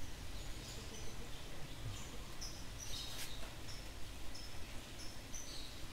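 Small birds chirping: short, high notes repeated every half second or so over a steady low background hum, with a single sharp click about three seconds in.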